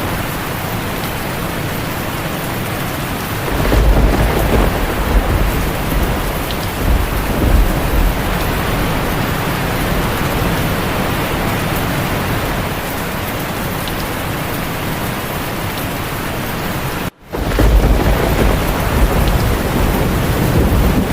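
Steady rain hissing, with deep rolls of thunder rumbling under it about four seconds in and again near the end. Just before the second rumble the sound cuts out for an instant.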